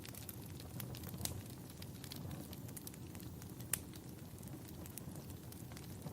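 Wood fire burning in a fireplace: a steady low rumble with scattered sharp crackles and pops, two of them louder, about a second in and past the middle.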